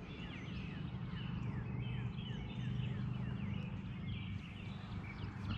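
Dawn birdsong: several birds giving quick, repeated descending chirps, over a steady low hum.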